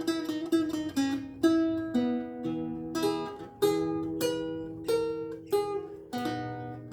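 Renaissance lute with gut strings played solo: a slow line of plucked notes over held bass notes, a new note about every half second, each ringing and fading.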